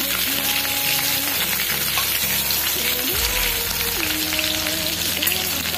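Chopped green chillies frying in hot oil with mustard seeds and cumin in a kadhai: a steady sizzle, with a steel ladle stirring through them.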